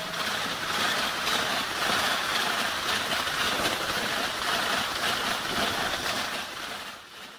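Steady rushing noise of passenger train coaches passing at speed, fading away near the end.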